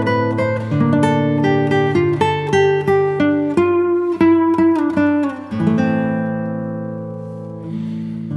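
Background music: a plucked guitar picks out quick notes one after another, then lets a chord ring out for about two seconds before striking the next.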